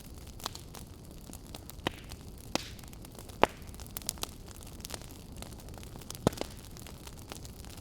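Wood fire crackling in a fireplace: irregular sharp pops and snaps, the loudest a little before halfway through, over a low steady hiss.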